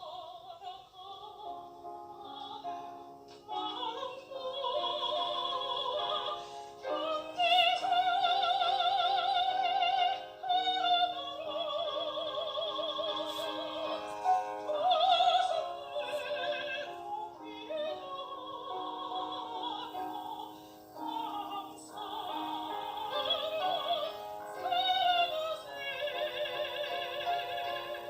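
Soprano singing a Korean art song (gagok) in an operatic style with wide vibrato, in phrases with brief breaths between them, over sustained accompaniment.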